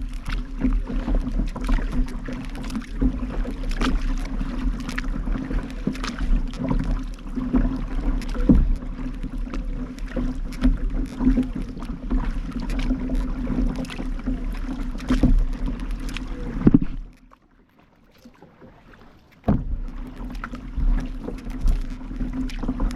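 Kayak being paddled: water noise with frequent sharp knocks and clicks from paddle strokes and the hull, over a steady low rumble. The sound drops almost to nothing for about two seconds near three-quarters of the way through, then resumes.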